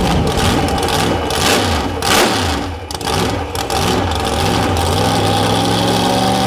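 Supercharged V8 hot rod engine with open zoomie headers, revved in blips and crackling while it throws flames, with one loud burst about two seconds in. After about three seconds it settles into a steady idle.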